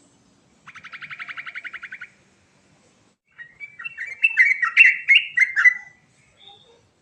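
Sooty-headed bulbul (trucuk) singing: a fast, even trill lasting over a second, then after a pause a louder quick run of varied notes.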